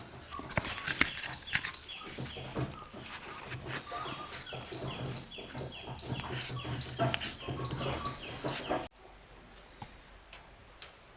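Birds chirping in a quick series of short falling notes, over scattered knocks and taps. The sound cuts off abruptly near the end, leaving only faint clicks.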